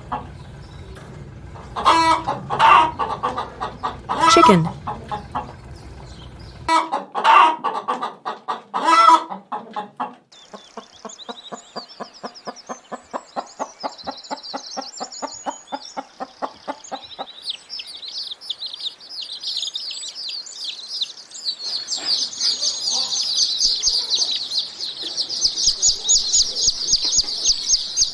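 Chickens clucking and squawking, with loud separate calls for the first ten seconds, then a fast run of clucks about five a second. From about seventeen seconds on, a dense rapid high cheeping takes over.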